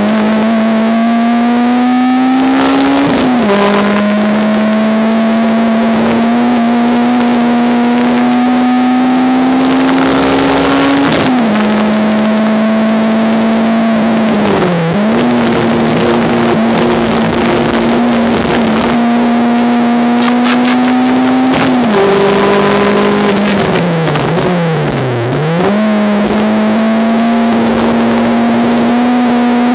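Racing Honda Civic engine heard from inside the car, running hard at high revs. The note climbs slowly and drops each time the gear changes. Near the end it dips sharply twice as the car brakes and downshifts, then climbs again under acceleration.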